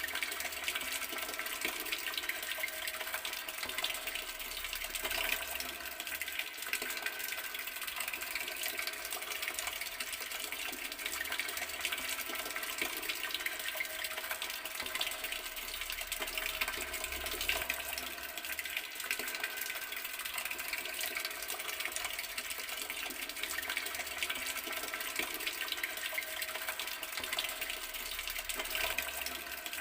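Garden water tap running, a steady stream of water splashing without pause.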